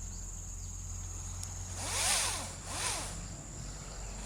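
Makita pole pruner's chainsaw head run in two short bursts, about two seconds in and again about a second later: each time the motor whirs up in pitch and winds back down.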